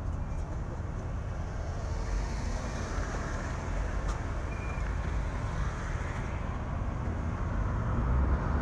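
Steady driving noise of a car heard through a dash camera: a constant low rumble of engine and tyres on the road.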